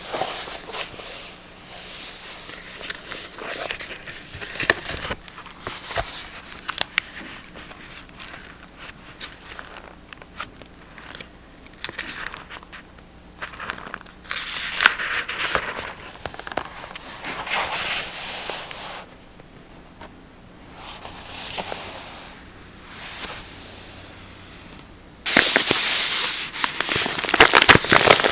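Paper and packaging handled close up for journaling: crinkling and rustling with many small sharp clicks, and a louder, steadier stretch of rustling in the last few seconds.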